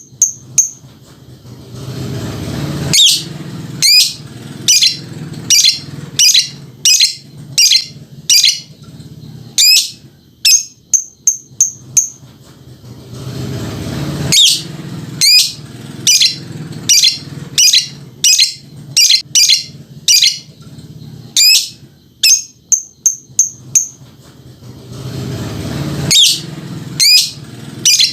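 Lovebird ngekek: a long series of sharp, high chirps, one or two a second, broken by short pauses in which quicker, shorter notes come in quick succession.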